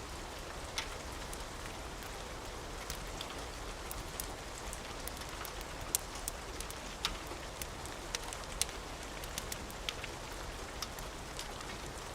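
Steady rain mixed with the sharp pops and crackles of a wood fire, scattered irregularly throughout.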